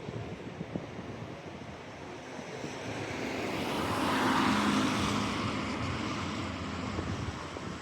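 A motor vehicle passes close by on the street, its engine and tyre noise swelling to a peak about four seconds in and then fading away.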